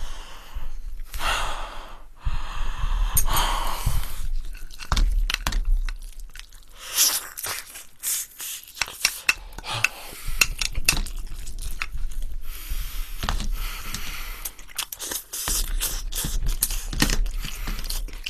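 Close-miked chewing and crunching of fried chicken, with irregular sticky, tearing mouth sounds and clicks and scrapes of tongs on a plate.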